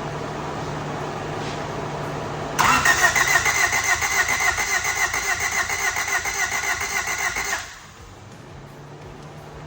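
Starter cranking the 1988 Honda CRX Si's 1.6-litre four-cylinder for about five seconds with an even, rapid chug, then stopping; the engine does not fire. No spark shows at the grounded plug, which the owner puts down to the distributor's internals. A steady fan hum runs before and after the cranking.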